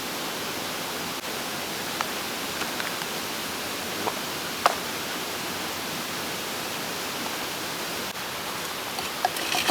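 Steady rushing of a mountain stream, with a couple of faint light clicks about two and five seconds in.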